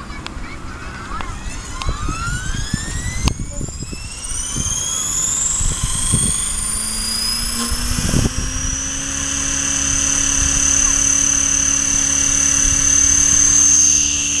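Align T-Rex 550E electric RC helicopter spooling up: the motor and gear whine rises steeply in pitch over several seconds, then holds steady once the rotor reaches head speed. Wind buffets the microphone underneath with uneven low rumbling.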